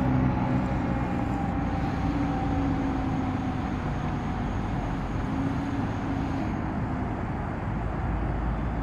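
Fire apparatus going by: heavy diesel engine and road noise, easing slightly, with a faint tone slowly falling in pitch.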